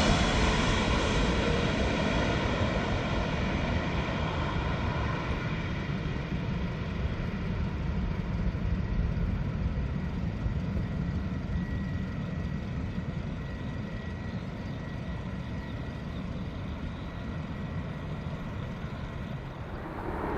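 Jet engine noise of a Boeing 777-300ER on its landing, with GE90 turbofans, dying away after its loudest moment and leaving a steady low rumble that slowly fades.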